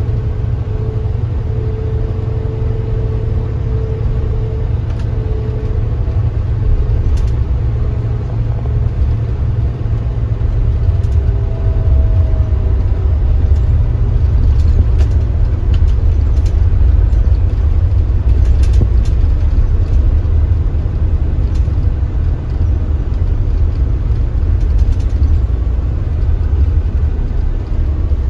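Kia Granbird Sunshine coach under way: a steady low engine and road rumble, with a faint whine over it for the first several seconds that fades out. The rumble grows a little louder about halfway through.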